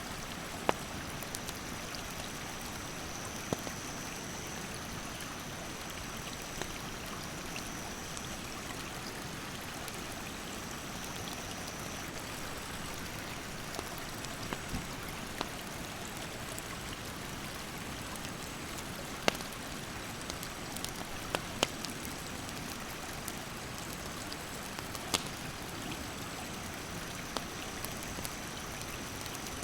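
A rushing mountain stream makes a steady wash of water noise. A wood campfire pops and crackles sharply every few seconds. A thin, high insect drone comes and goes.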